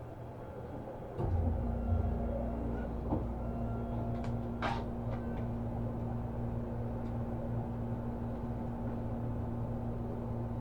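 Seibu New 2000 series electric commuter train heard from inside the car: a low rumble and a steady hum start abruptly about a second in and carry on evenly. A brief hiss of air sounds about four and a half seconds in.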